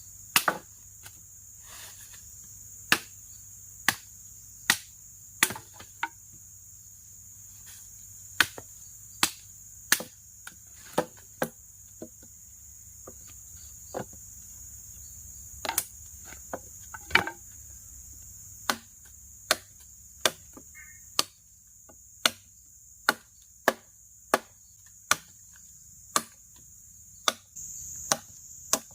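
Repeated sharp chopping strikes, irregular and roughly one a second, over a steady high-pitched chorus of crickets and other insects.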